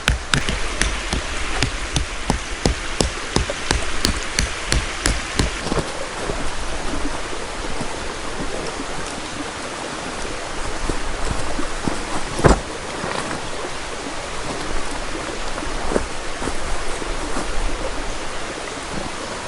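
Steady rushing water noise, with a quick run of short sharp clicks over the first six seconds and a single loud knock about twelve seconds in.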